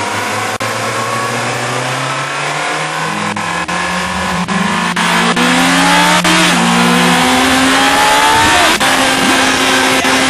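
Sport motorcycle engine at high speed with a steady rush of wind, the engine pitch rising as it accelerates and dropping back about halfway through at a gear change before rising again.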